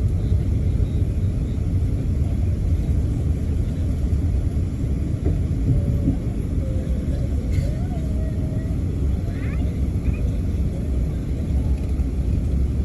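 Steady low rumble of an Airbus A380 heard from inside the passenger cabin: engine and airframe noise with no sudden changes.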